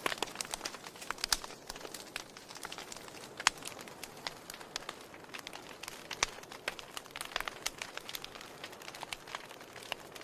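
Burning logs in a fireplace crackling, with irregular sharp pops and snaps over a soft steady hiss of the flames. Two louder snaps come about a second and about three and a half seconds in.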